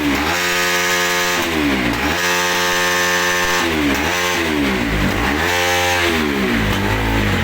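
Motorcycle engine running at high revs, its pitch dipping and climbing back several times as the throttle is worked.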